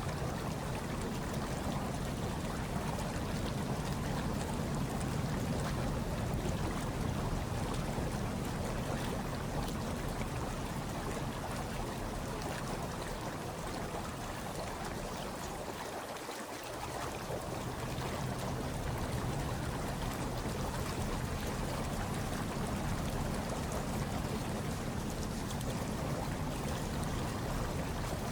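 Hot tub water churning steadily, a low, even rush of moving water that thins briefly about halfway through.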